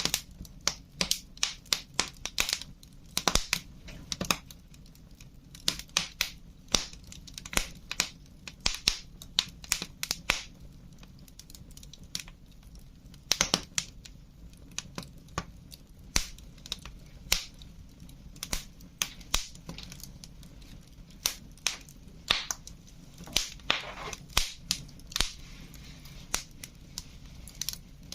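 Wood fire crackling: irregular sharp pops and snaps, sometimes several in quick succession, over a steady low background.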